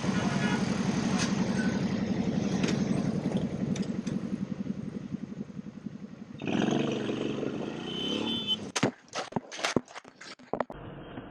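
Motorcycle engine running steadily, changing note about two thirds of the way through, followed by a quick series of sharp knocks and clattering.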